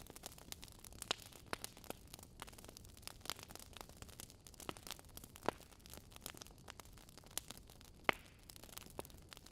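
Fire crackling: a faint hiss with irregular sharp pops and snaps, a few louder pops about five and a half and eight seconds in.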